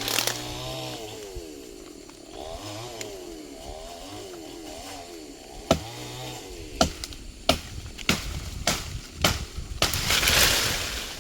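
A chainsaw revving up and down as it cuts. About halfway through come a series of about six sharp knocks, and near the end a rush of noise.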